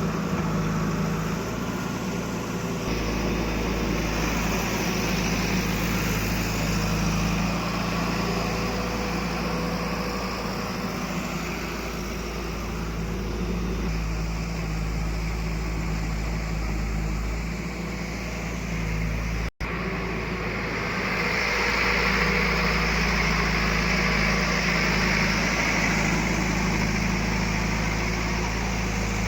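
Diesel engines of heavy machinery running steadily, with a momentary break about two-thirds of the way through.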